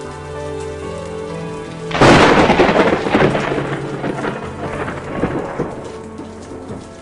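Steady rain with soft sustained music under it. About two seconds in, a sudden loud thunderclap breaks out and rumbles away over the next few seconds.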